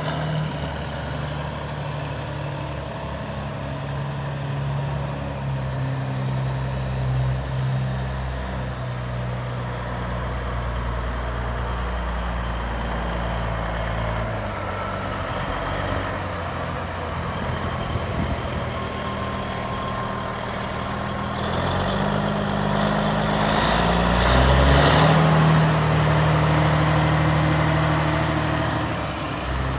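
Caterpillar diesel engine of a 1984 Peterbilt 359 semi truck running steadily. A short hiss comes about two-thirds of the way in, and the engine grows louder and slightly higher for several seconds near the end.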